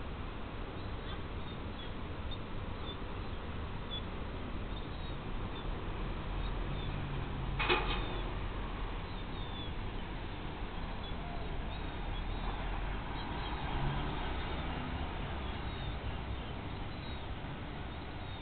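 Faint, short, high bird chirps repeating over a steady low background rumble, with a single sharp knock about eight seconds in.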